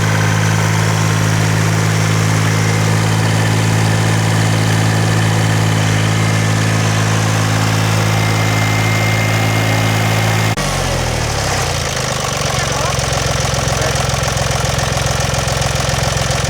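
Engine of a farm tilling machine running steadily. About ten seconds in, the note changes abruptly, drops over a second or so, and settles into a lower, steady running note.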